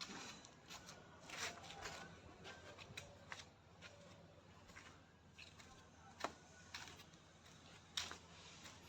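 Faint, irregular rustles and light clicks, with two sharper clicks late on.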